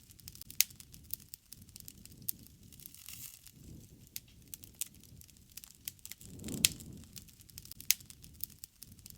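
Wood bonfire crackling, with scattered sharp pops and snaps over a low rush of flame. The rush swells up about two-thirds of the way through, together with the loudest pop.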